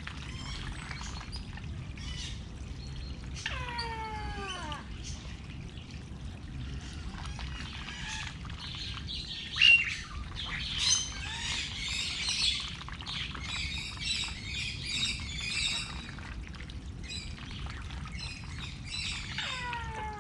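Birds chirping and calling. A long call falling steeply in pitch comes a few seconds in and again at the very end, and a dense run of high chirps, with one loud sharp chirp, fills the middle, over a steady low rumble.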